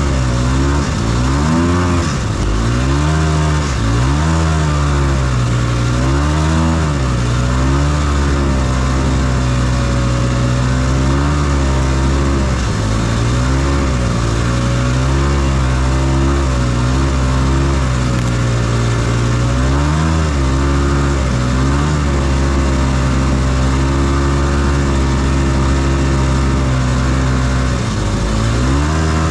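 Snowmobile's 277cc two-stroke engine running under way while towing a trail-grooming drag, its pitch rising and falling again and again as the throttle is worked.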